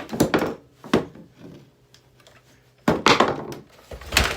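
Hard knocks and clatters of objects being handled and set down: a group at the start, a single knock about a second in, a longer cluster around three seconds, and a heavier thud near the end.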